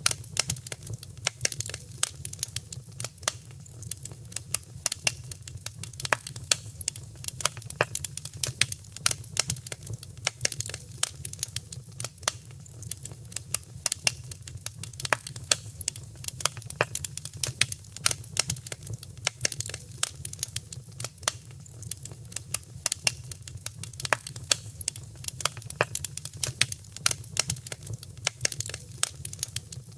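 Fireplace fire crackling: a dense, irregular run of sharp pops and snaps over a steady low rumble.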